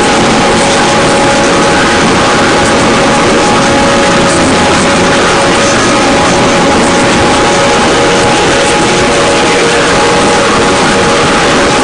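Harsh noise drone music: a loud, unbroken wall of hissing distortion with two steady tones held underneath, no beat or change.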